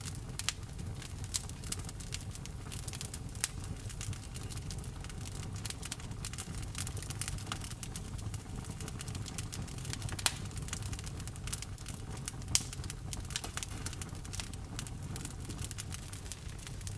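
Wood fire burning, crackling with irregular snaps and pops over a low steady rumble; two sharper pops stand out about ten seconds in and again two seconds later.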